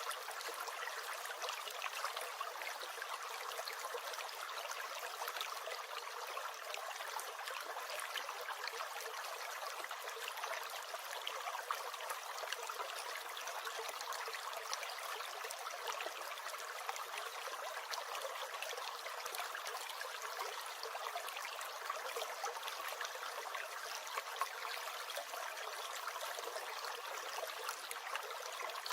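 Small brook gurgling steadily, a constant trickling, bubbling flow of water without any low rumble.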